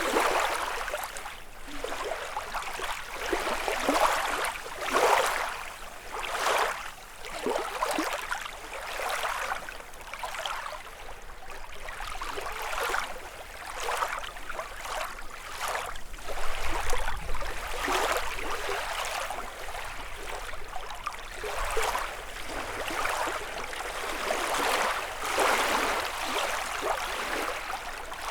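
Small lake waves lapping on a shore, a soft splash every second or two.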